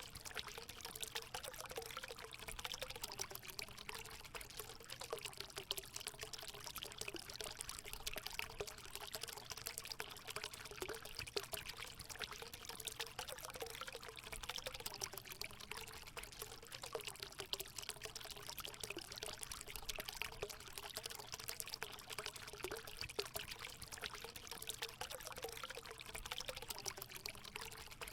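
Natural spring water pouring steadily into a hot spring pool: a constant rush with a bubbling, wavering gurgle.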